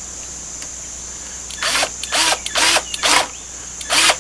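Power drill driving a screw in short bursts, about five spurts starting a second and a half in.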